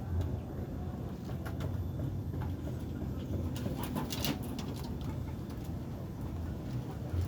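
Domestic pigeons cooing in a low, pulsing murmur, with a few scattered sharp clicks in the middle.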